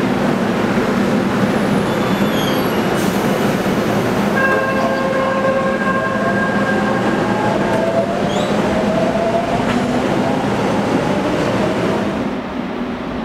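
Korail electric commuter train at the platform: over a steady loud rumble, a held tone sounds for a few seconds, then the motors give a rising electric whine as the train starts to pull away. The sound drops and changes just before the end.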